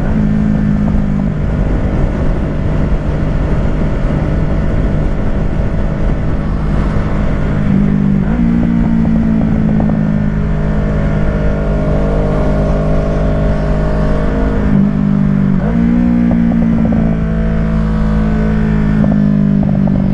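Kawasaki Ninja 650 parallel-twin running through a Shark SRC-4 full exhaust at motorway speed, a steady engine note over wind rush. The pitch steps up abruptly twice, about 8 and 16 seconds in.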